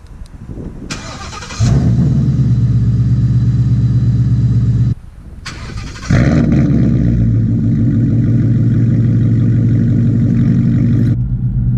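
Car engine being started twice: each time a short cranking burst, then the engine catches and idles steadily and loudly, with an abrupt break between the two starts.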